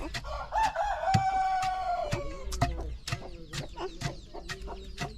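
A rooster crowing once: one long call of about two seconds that falls in pitch at the end. Chickens cluck around it.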